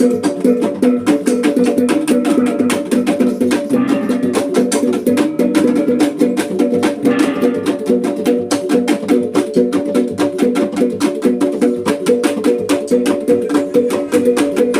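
Sumbanese gong and drum ensemble playing: a fast, even beat of drum strokes over steadily ringing gong tones.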